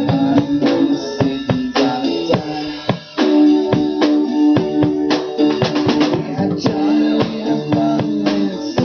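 Instrumental rock band passage: guitar chords over a drum kit playing a steady beat, with a brief drop just after three seconds in.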